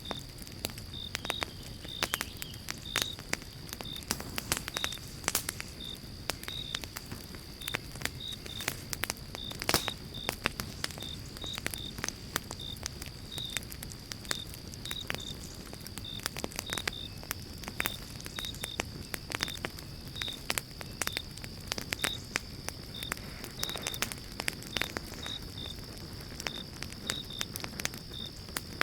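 Pine-log campfire crackling, with dense irregular sharp pops over a low steady rush of burning. A faint steady high tone and short high chirps about every half second run in the background.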